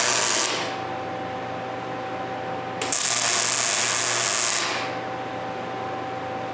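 Welder laying tack welds on steel plates boxing a car's notched frame rail: two bursts of crackling arc hiss, one ending about half a second in and another from about three seconds in lasting nearly two seconds, with a steady hum between them.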